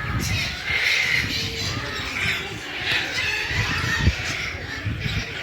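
Squawking animal calls with a low rumble underneath.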